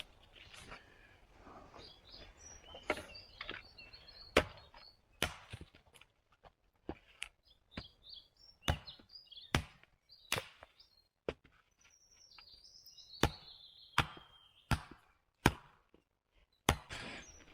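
Wood being chopped: a series of sharp, irregular blows roughly a second apart. Birds chirp faintly between the strokes.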